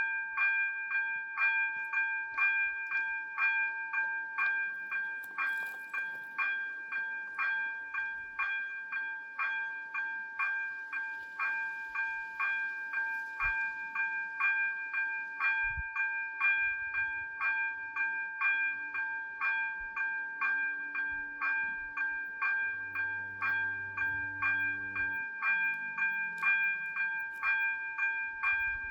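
Level-crossing warning bells (ZV-02) ringing steadily at about two strokes a second, each stroke a bright, ringing tone. The crossing is in its warning state for an approaching train.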